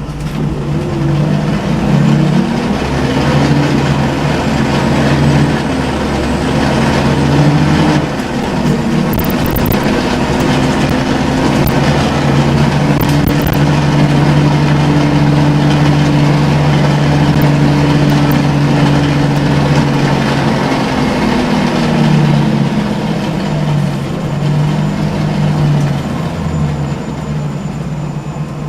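Scania L94UB city bus's CNG engine and ZF five-speed automatic gearbox under way. The engine's pitch climbs and drops several times over the first several seconds, holds steady for a long stretch, then falls as it slows. It is a sound the uploader counts among the worst-sounding buses in Brisbane, cause unknown.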